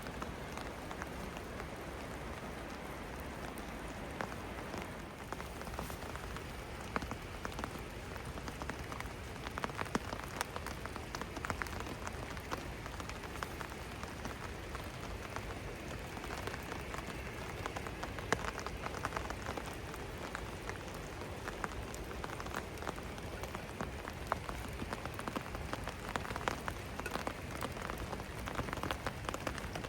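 Steady rain falling, with many separate drops ticking on hard surfaces over an even hiss.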